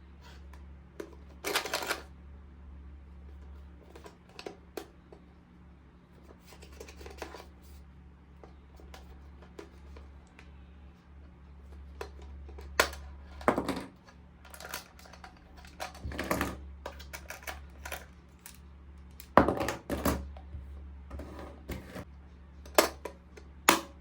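Small plastic toy parts and packaging being handled: scattered clicks and taps with several short rustling crinkles, over a steady low hum.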